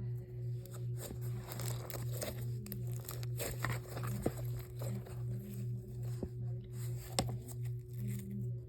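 Thick cookie dough slime being squished and pulled by hand, giving scattered crackles and small pops. Under it runs a low hum that pulses about twice a second.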